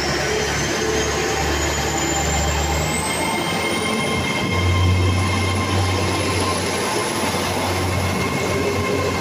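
GWR Intercity Express Train pulling away from the platform on its underfloor diesel engines, with a steady engine drone and a rumble of wheels on rail. A high whine climbs steadily in pitch over the first few seconds as the train gathers speed, then holds level.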